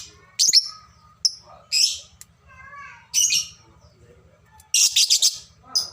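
Lovebirds chirping in short, shrill calls, with a quick run of calls about five seconds in. A faint low hum runs underneath.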